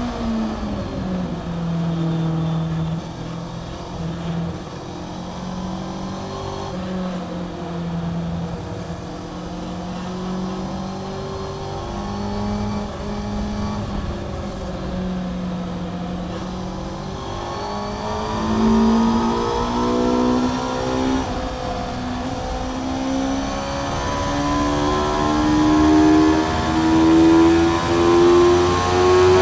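Honda CBR600F's inline-four through a Mivv aftermarket exhaust, heard from the rider's seat on track. Revs fall over the first couple of seconds, hold low through the middle, then climb steadily through the last third as the bike accelerates hard.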